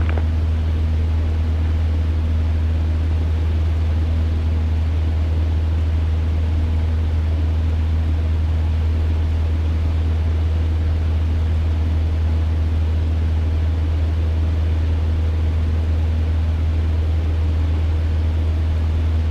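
Cessna 150's four-cylinder Continental engine and propeller droning steadily in flight, heard from inside the cockpit as an even low hum with a few steady low tones.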